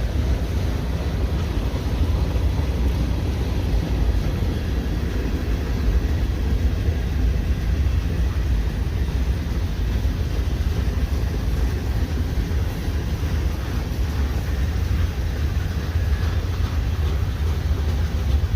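CN freight train rolling past, a steady low rumble of the cars on the rails, heard from inside a car.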